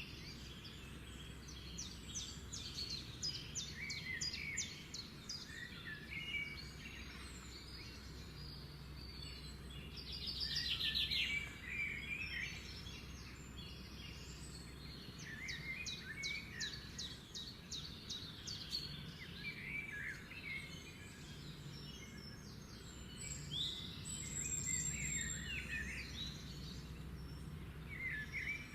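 Several birds chirping and singing over one another, with high-pitched calls and fast trills; a louder rapid trill comes about eleven seconds in. A faint steady low hum runs underneath.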